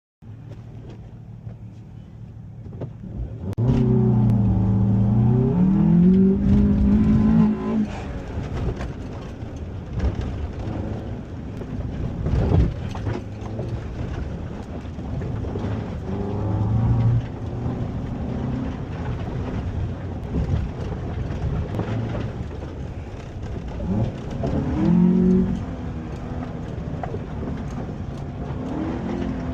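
2005 Honda Element's four-cylinder engine driven hard in rallycross, revving up and falling back through the gears, with scattered knocks and rattles. It runs quieter for the first three or four seconds, then climbs sharply, and pulls hard again several more times.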